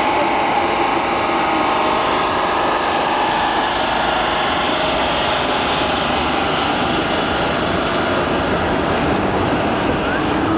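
Steady, continuous drone of a train at a station platform, a running rumble with a faint engine-like hum and no distinct knocks or breaks.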